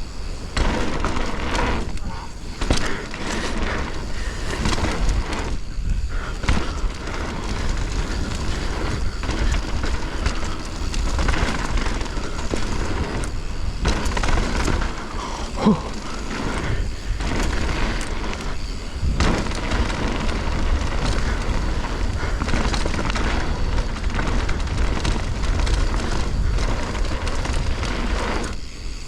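Wind buffeting the microphone during a fast mountain bike descent, with tyre noise on dirt and the bike rattling over bumps.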